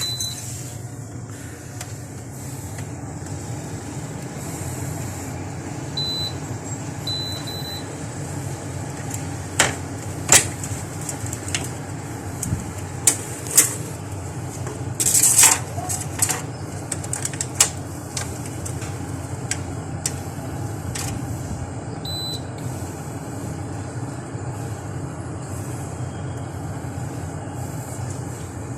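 Window-type air conditioner running with a steady hum after being switched on, on a unit that is not cooling; a few short high beeps from its controls and scattered clicks sound over it.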